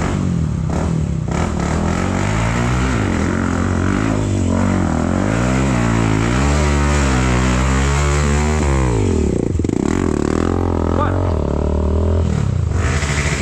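Engine of a 250 cc off-road motorcycle revving up and down over and over, its pitch swinging for several seconds. About two-thirds of the way through it drops sharply, then runs on lower.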